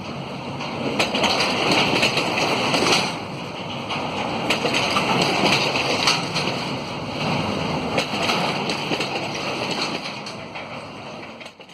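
Freight train of empty flat wagons rolling past, its steel wheels clattering and knocking on the rails, with wind on the microphone; the sound fades away near the end.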